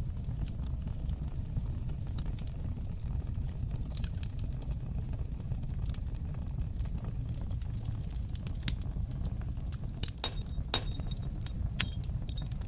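Wood fire burning in a fireplace: a steady low rumble of flames with scattered small crackles and pops, a run of louder pops about ten seconds in and one sharp snap near the end.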